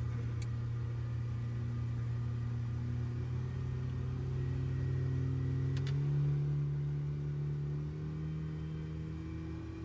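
Boat engine running steadily, its pitch and level rising as it is throttled up about halfway through, then easing back a couple of seconds later. Two short clicks are heard, one at the very start and one about six seconds in.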